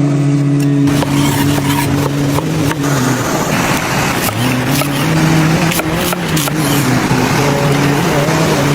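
Mackerel sizzling on a hot rock: a loud, steady hiss with many sharp crackles, starting about a second in. Under it, a man's voice chants in long held notes.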